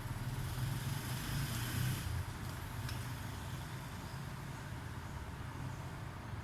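A low, steady engine hum, a little louder for the first two seconds and then easing.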